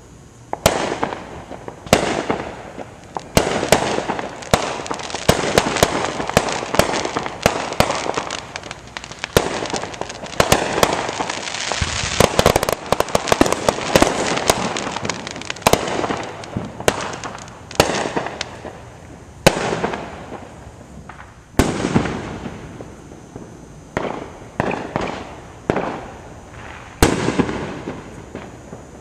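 Aerial fireworks going off: a rapid string of sharp bangs and crackling, densest in the first half, thinning later to single bangs a second or two apart.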